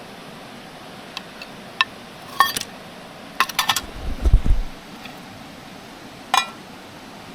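Hard objects being handled: several light clinks and taps with a short ring, and a dull low thump about four seconds in.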